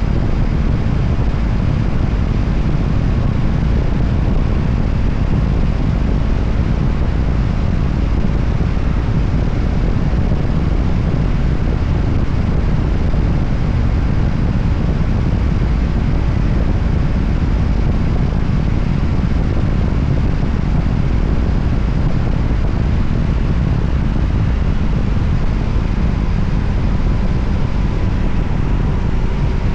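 A Voge 300ACX motorcycle under way at a steady speed: its engine running under a constant rush of wind over the microphone, with no shifts or changes in pace.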